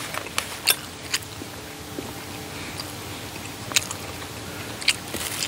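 A man chewing a mouthful of Thai tapioca dumplings with his mouth closed, with a few short, sharp clicks scattered through.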